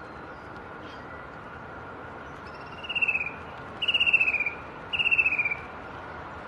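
A forest bird gives three short trilled calls about a second apart, each sliding slightly down in pitch. Behind them is a steady high-pitched insect drone.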